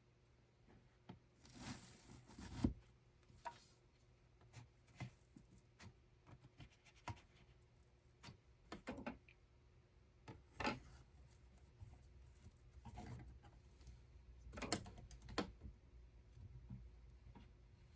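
Quiet, irregular taps, clicks and rubbing of small objects being handled, a dozen or so scattered strikes with no steady rhythm, the sharpest about two and a half seconds in.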